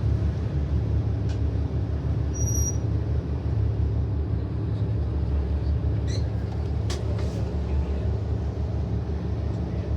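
A small ferry's engine runs with a steady low rumble, heard from on board. There is a brief high beep about two and a half seconds in, and a few faint clicks a little past the middle.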